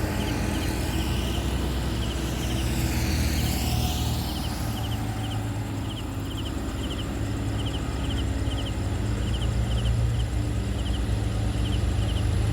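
Heavy truck running on the road with a steady low engine drone and road noise. A rushing sweep in the first few seconds sounds like a vehicle passing close.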